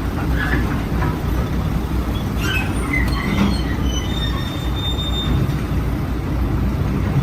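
Steady rumble of a moving vehicle, with a few brief faint high squeals partway through.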